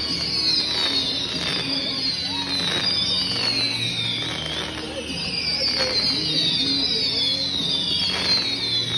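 Fireworks display: several whistling shells going up at once, each whistle sliding down in pitch, over a run of pops and crackling bursts.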